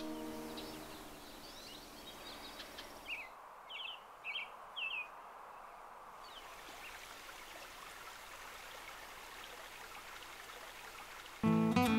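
Wild songbirds chirping over a faint steady outdoor hiss, with three short downward-slurred calls about three to five seconds in. Soft music fades out at the start, and guitar music comes in just before the end.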